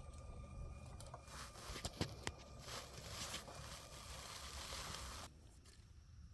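LEGO train running on plastic track: a faint hiss of rolling noise with a few sharp clicks about two seconds in, stopping suddenly a second before the end.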